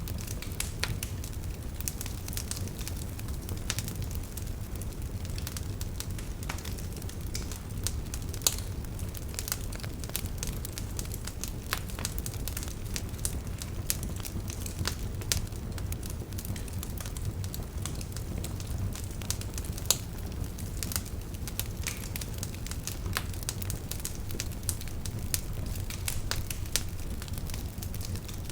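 Campfire crackling, with frequent sharp pops scattered throughout, over a steady low rush of a river.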